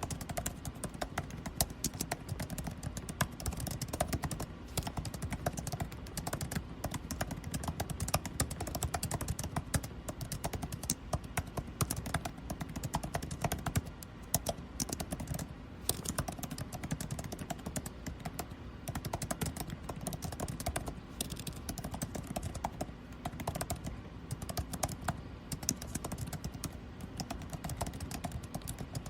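Typing on a computer keyboard, rapid irregular key clicks with short pauses, over a steady low hum of air conditioning.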